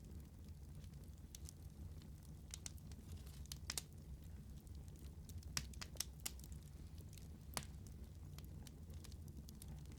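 Wood fire burning in a fireplace: scattered sharp crackles and pops, a few louder ones in the middle, over a steady low rumble of the flames.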